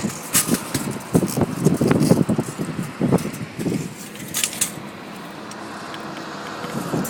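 Gusty wind buffeting the microphone in irregular rumbling thumps, with a few sharp clicks. About five seconds in it eases to a steadier, quieter rush.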